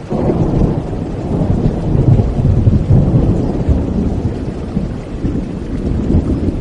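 A long, low rumble of thunder that swells just after the start, peaks a couple of seconds in and slowly fades, over steady rainfall.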